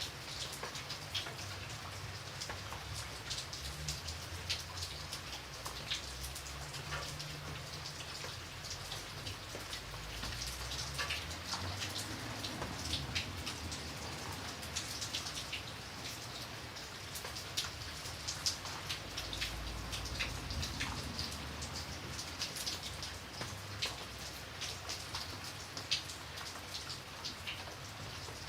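Steady rain with many distinct drops pattering on a surface, and a soft low rumble underneath.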